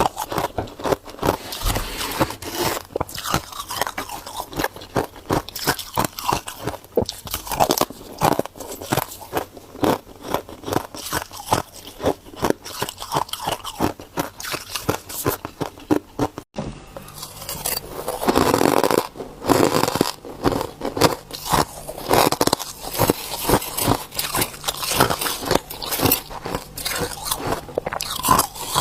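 Ice being bitten and chewed close to the microphone: a dense, continuous run of sharp crunches and crackles as it breaks between the teeth, with a momentary break about two-thirds of the way through.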